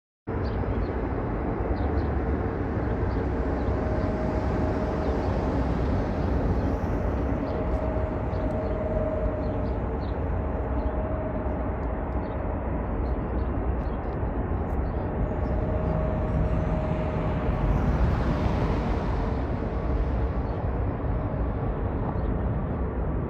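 Jet airliner taking off, its engines at takeoff power: a steady, loud rumble with a faint whine running through it. The sound cuts in abruptly just after the start and swells slightly about 18 seconds in.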